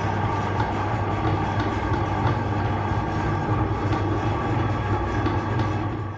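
Electric meat grinder running steadily, a constant low motor hum.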